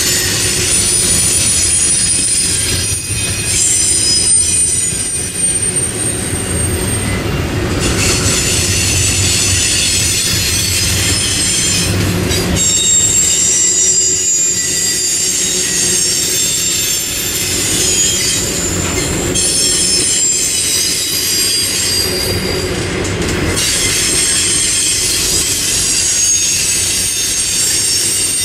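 Double-stack intermodal freight train rolling past: a steady rumble of wheels on rail with high-pitched wheel squeal that comes and goes.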